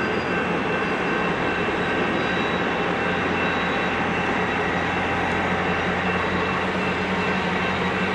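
EMD GP9 diesel locomotive running steadily with its train rolling along the rails: a constant engine drone under a noisy rumble, with a few faint steady high ringing tones.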